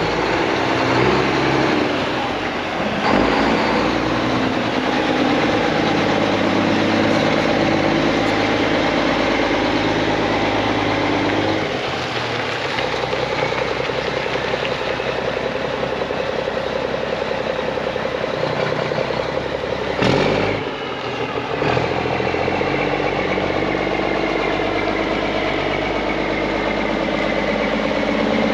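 Mack E-Tech inline-six diesel engine of a 2001 Mack CH613 tractor idling steadily. A sharp knock comes about three seconds in, and the running briefly dips with another knock about twenty seconds in.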